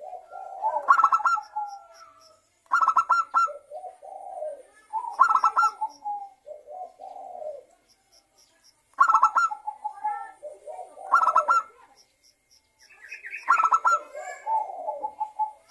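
Zebra dove (perkutut) cooing: about six phrases, each a quick stuttering run of coos that drops into lower rolling notes, with short pauses between them.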